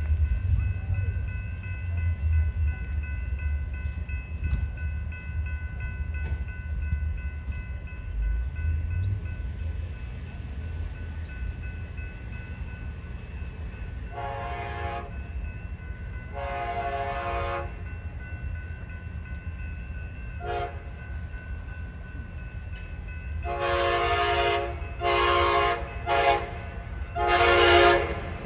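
Diesel passenger locomotive running with a low rumble while its air horn sounds six blasts from about halfway through: two long blasts, a short one, then three more long blasts near the end. A faint steady high whine under the rumble stops shortly before the last three blasts.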